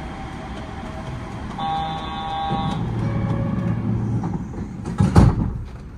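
Yurikamome train standing at a station platform: a steady electronic tone sounds for about a second, a low hum follows, and a loud clunk comes about five seconds in, after which the train noise drops.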